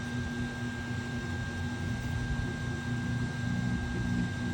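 A steady machine hum: a constant high whine over a low, even drone.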